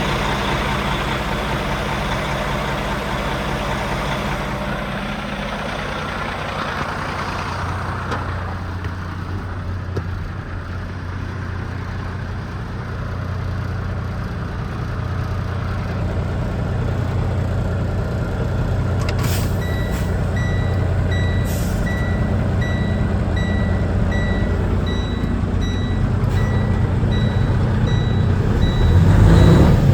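A 2012 Freightliner tri-axle dump truck's diesel engine running steadily. About two-thirds of the way in, its backup alarm starts beeping a little under once a second as it reverses, with a couple of short air hisses around the time the beeping begins.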